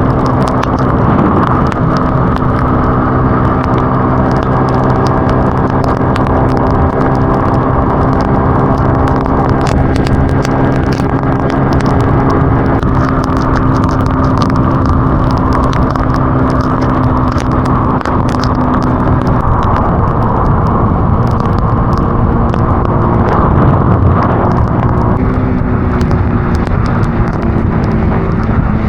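Road vehicle engine droning steadily at cruising speed, its pitch shifting slightly twice in the second half, with road noise and scattered light ticks over it.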